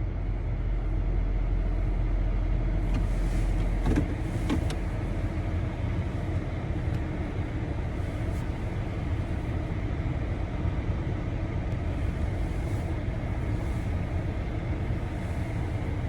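A car running with a steady low rumble, with a few faint clicks about four seconds in.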